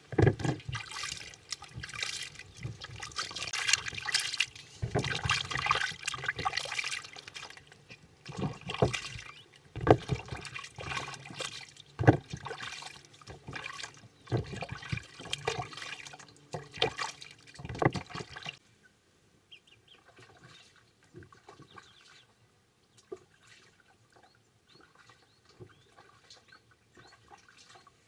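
Water splashing and sloshing in irregular surges, stopping about eighteen seconds in; after that only faint scattered clicks.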